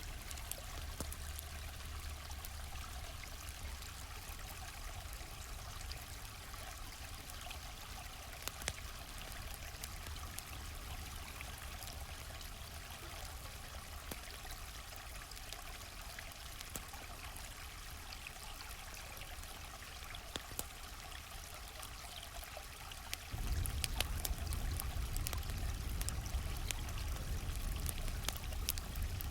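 Gently flowing stream with a campfire crackling over it: a steady rush of water dotted with sharp pops and snaps. About three-quarters of the way through, a deeper low rumble cuts in and the whole sound gets louder.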